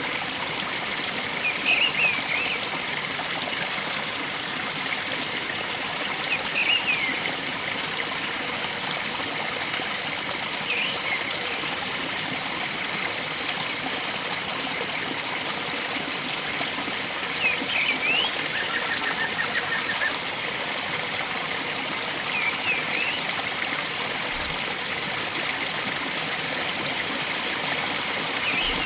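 Steady rush of a flowing stream, with a bird's short high chirp repeated six times, roughly every five seconds, and a brief faint trill a little past the middle.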